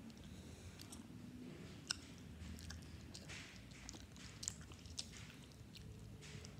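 A person chewing a mouthful of hot dog close to the microphone: faint mouth clicks and smacks, with a few sharper clicks about two seconds in and again near five seconds.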